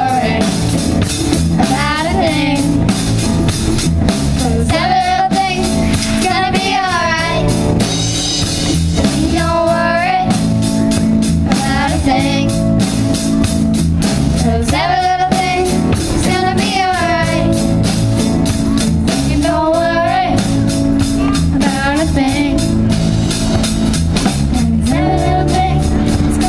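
A band playing a song, with a singer's melody over guitar chords and a steady drum-kit beat.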